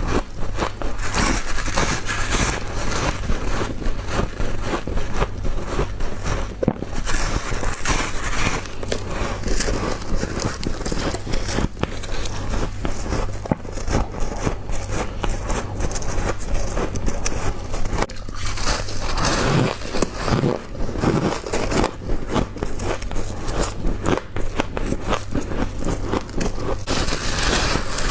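Frost-covered ice being bitten and chewed close to the microphone: a dense, continuous crunching and crackling, over a steady low hum.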